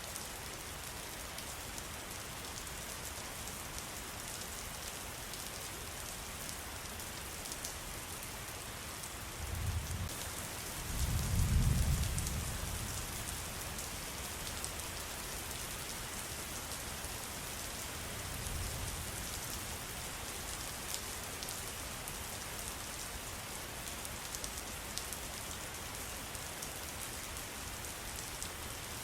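Steady rain falling, an even hiss with many small drop ticks. Low rumbles rise about ten and twelve seconds in, the second the loudest, with a weaker one near eighteen seconds.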